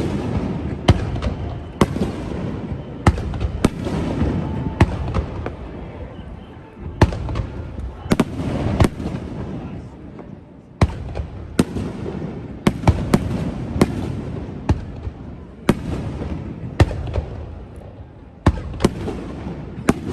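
Aerial firework shells bursting in quick succession: sharp bangs, irregularly spaced at about one to two a second, with a low rumble carrying on between them.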